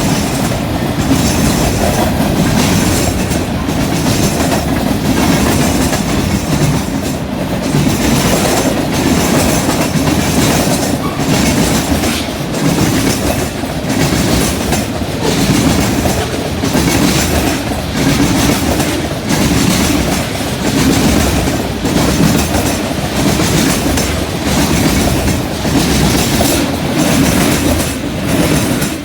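Freight train cars rolling steadily past close by, their wheels clacking over rail joints and a junction switch.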